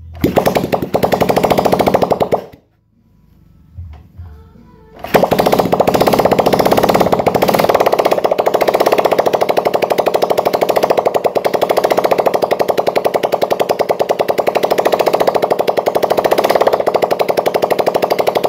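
Suzuki Satria FU's 150 cc single-cylinder engine running with no exhaust pipe fitted, a loud rapid popping straight out of the exhaust port, during an ignition and combustion test. It runs briefly, stops about two and a half seconds in, then starts again about five seconds in and runs steadily.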